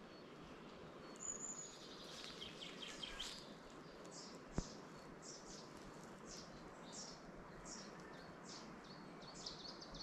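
Wild birds calling: some chatter early on, then a run of short, high, falling notes about two a second, over a faint steady hiss. A single sharp click comes about halfway through.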